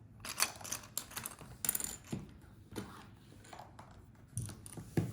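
Plastic Lego pieces clicking and rattling as they are handled: irregular small clicks and taps, a few at a time.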